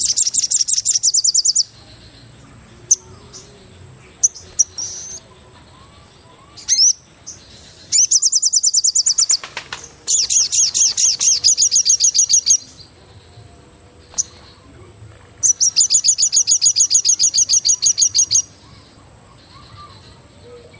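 Wild songbird giving long, rapid, high-pitched trills of fast repeated notes, about nine a second, four times. Short single chirps fall in between.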